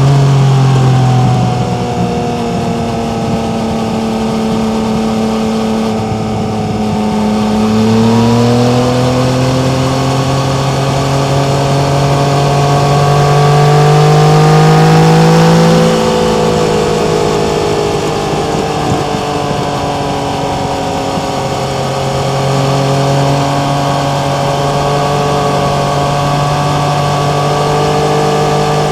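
Yamaha MT-09's three-cylinder engine running under way at part throttle. Its pitch climbs slowly, falls sharply about halfway through, then climbs again.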